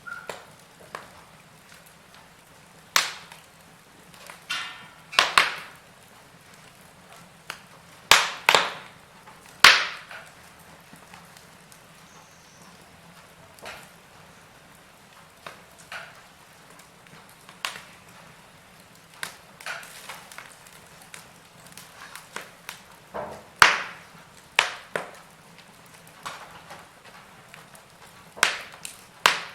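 Wood fire in a fireplace crackling, with irregular sharp pops and snaps. The loudest pops cluster about eight to ten seconds in and again past the middle, over a faint steady low hum.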